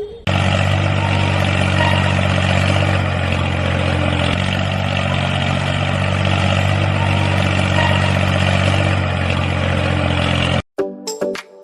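A steady running engine or motor with a low, even hum under a hiss, cutting off suddenly near the end.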